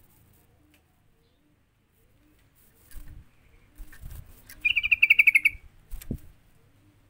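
Yellow-vented bulbul giving a fast chattering call, a run of about a dozen quick notes over about a second, midway through. A few soft low knocks come before and after it.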